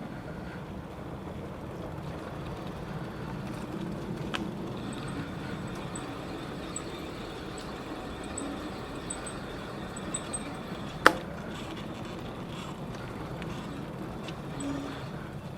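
Steady rolling and wind noise from a bicycle ride, with a light click about four seconds in and a sharp, louder knock about eleven seconds in.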